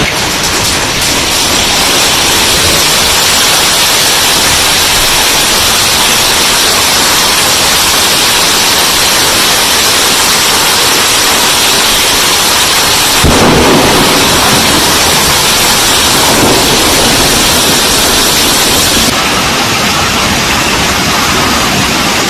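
Heavy hail and rain pounding down in a dense, steady rush of noise, with a heavier surge about 13 seconds in.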